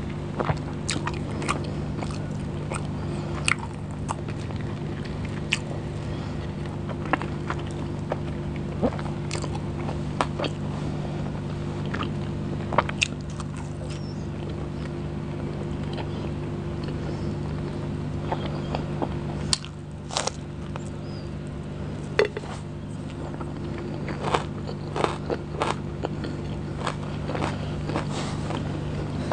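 Close-miked chewing and biting of a person eating an Indian meal of curry, biryani and paratha by hand: irregular wet mouth clicks and smacks throughout, over a steady low hum.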